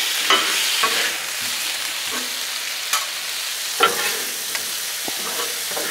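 Sliced steak and peppers and onions sizzling steadily on a hot Blackstone flat-top griddle. Metal spatulas scrape and tap on the steel cooktop a few times as the food is turned.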